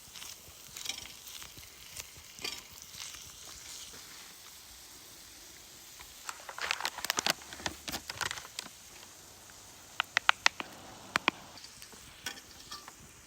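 Rice and pork belly sizzling in a small frying pan, with a utensil stirring and scraping against the pan in a spell in the middle and a few sharp taps on the pan about ten seconds in.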